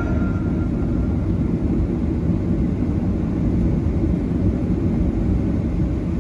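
Steady low rumble inside the cabin of a Boeing 737-900ER with its CFM56-7B engines running before takeoff.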